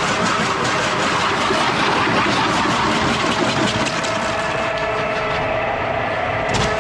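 Motor-driven power tool running steadily under load, cutting into a log as it is hollowed out for a beehive, with a faint steady whine through the noise.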